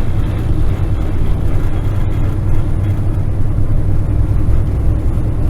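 Kenworth semi truck's diesel engine running steadily with a low drone as the truck drives slowly, heard from inside the cab.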